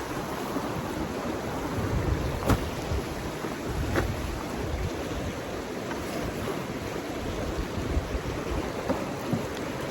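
Steady outdoor rushing noise with wind buffeting the microphone in uneven low gusts, and two sharp clicks, about two and a half and four seconds in.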